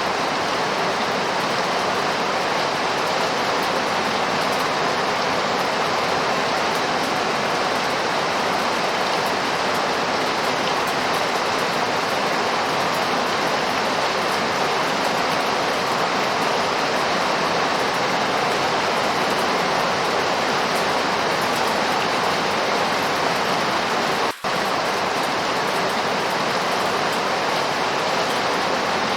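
Steady rainfall, an even hiss, broken once by a split-second dropout about 24 seconds in.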